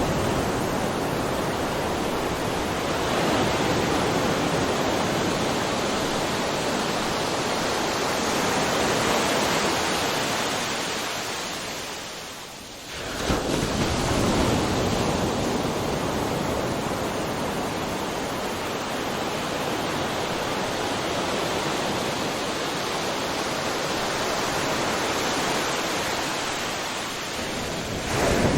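Ocean surf: a continuous wash of breaking waves that swells and eases, fading down about halfway through before the next wave surges back in abruptly.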